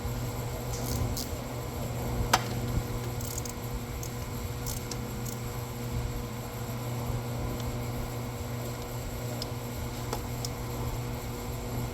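Scattered light clicks of hand tools working a car battery terminal down and snug, with one sharper click about two seconds in, over a steady background hum.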